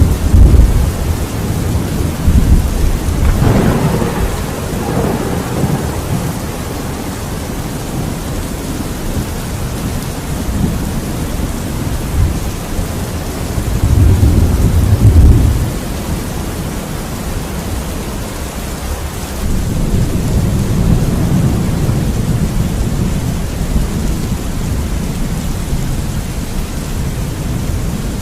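Steady rain with rolling thunder. A louder peal about three seconds in rumbles for a couple of seconds, and further low rumbles swell about halfway through and again later.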